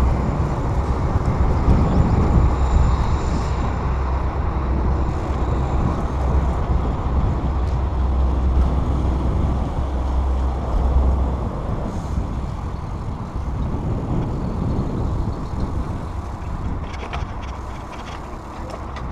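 Wind rushing over the microphone while riding a bicycle, a loud steady rumble mixed with the noise of the ride. The deep buffeting eases off a little past halfway, leaving a lighter rush.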